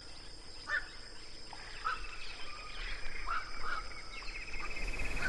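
Birds giving about five short, scattered calls over a steady outdoor hiss, with a rapid pulsing trill in the second half.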